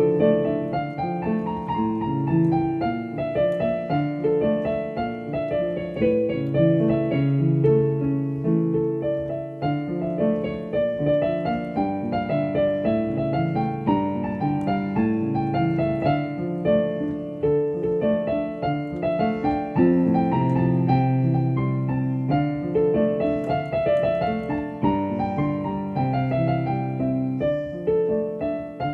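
Piano music: a melody played over changing chords, without pause.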